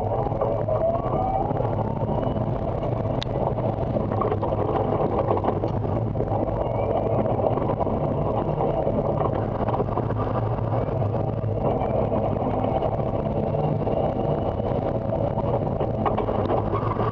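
Electric race car's DC motor whining under a steady rush of running noise. The whine rises in pitch again and again as the car accelerates between turns.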